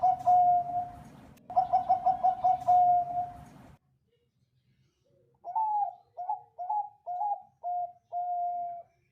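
Zebra dove (Bangkok perkutut) cooing: two phrases of quick rolling coos, each ending in a held note, then after a pause of about two seconds a slower phrase of about six coos, the last one drawn out.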